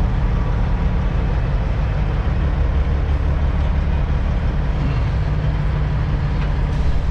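Semi-truck diesel engine running at a steady low idle: an even, unbroken low drone.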